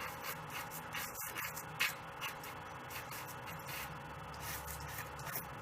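Dry pastel stick rubbing across paper in repeated long strokes, about two a second, each a short faint scratchy swish.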